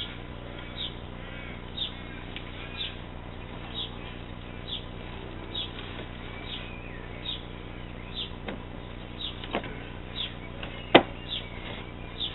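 A bird repeating a short high chirp about once a second, with one sharp knock near the end.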